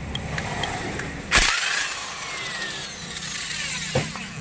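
An electric power tool fires a short loud burst about a second and a half in. Its whine then falls in pitch as the motor spins down, with a click near the end.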